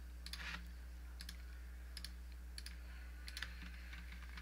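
Faint computer mouse clicks, a handful spread unevenly over a few seconds, as spline points are placed in CAD software, over a steady low electrical hum.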